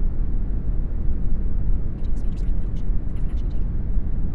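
Brown noise: a steady, deep hiss weighted toward the low end. About halfway through come a few faint, brief high-pitched hissy flickers, like the sibilants of a buried voice track.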